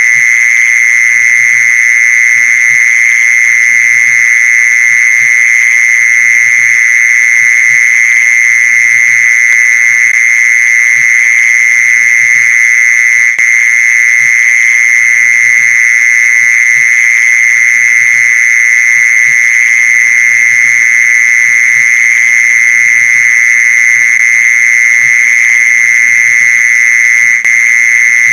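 Mole cricket song played as a lure call: one loud, continuous high trill at a steady pitch, unbroken throughout.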